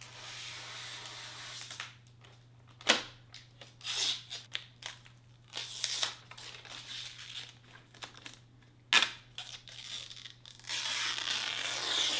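Protective plastic film being peeled and torn off a new robot vacuum, crinkling in bursts, with a couple of sharp snaps and a longer stretch of peeling near the end.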